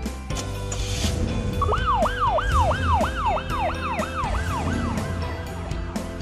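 Emergency vehicle siren sound effect, sweeping quickly up and down about three times a second, starting about a second and a half in and fading away after a few seconds, over cartoon background music.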